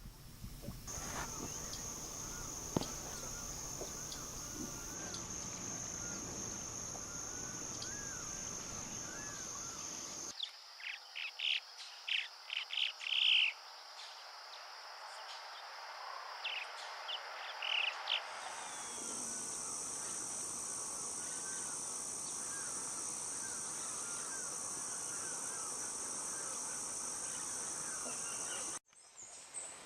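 Calls of an unidentified bird: a quick run of short, sharp notes near the middle and a few more shortly after, over a steady high-pitched insect buzz. The background changes abruptly twice, as separate recordings are spliced together.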